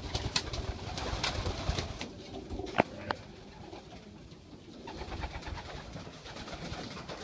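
Racing pigeons cooing in a loft, a steady low murmur of coos, with scattered short clicks and a brief sharp squeak a little under 3 seconds in.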